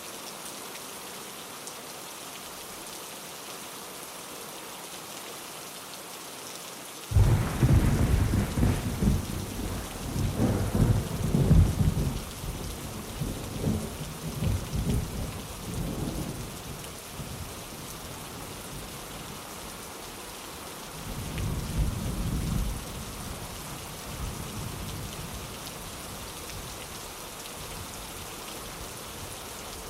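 Steady heavy rain falling. About seven seconds in, a sudden thunderclap breaks into a long rolling rumble that fades over several seconds, and a second, shorter rumble of thunder follows later on.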